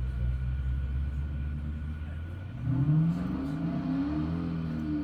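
Car engine running with a low steady drone, then revved about two and a half seconds in, its pitch rising and falling several times.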